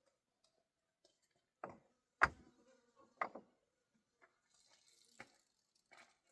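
A few sharp knocks, the loudest about two seconds in, with small clicks between them and a brief hiss near the middle.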